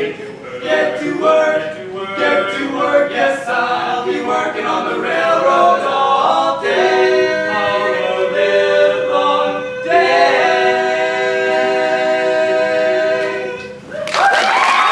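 Male barbershop quartet singing a cappella in close four-part harmony, with short clipped notes giving way to two long held chords as the song ends. Applause and cheering break out right at the end.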